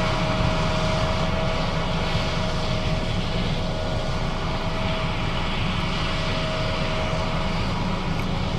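John Deere S660 combine running steadily while harvesting soybeans: a constant engine and threshing drone with a steady whine over it.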